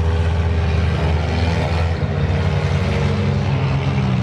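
Claimer stock cars racing on an oval track: several engines running together at speed in a steady, loud mix.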